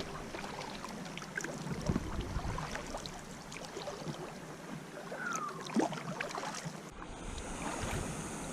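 Kayak paddling on a river: paddle blades dipping and dripping, with water rippling and splashing around the hull. A short falling squeak comes about five seconds in.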